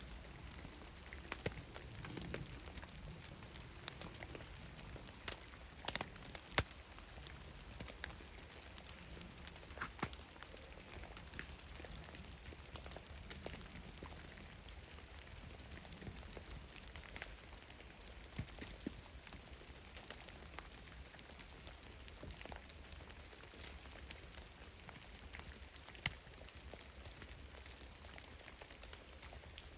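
Drops of meltwater falling from snow-laden trees in a forest, landing as scattered irregular taps and plips, some close and sharp, over a faint steady hiss.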